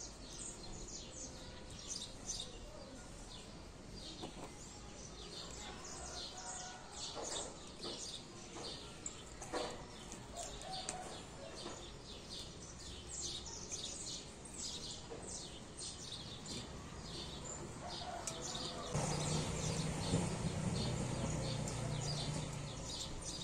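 Many small birds chirping in quick, short, high calls all through. Near the end a low steady hum comes in underneath.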